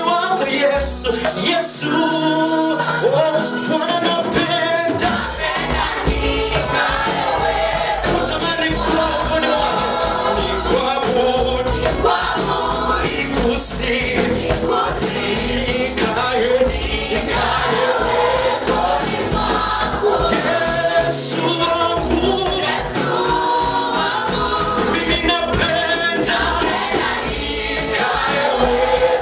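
A vocal group singing a gospel praise song with band backing. The bass comes in about five seconds in and carries a steady beat under the voices.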